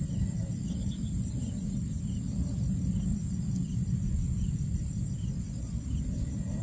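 Outdoor ambience: a steady low rumble with a thin, steady high tone and faint scattered chirps above it.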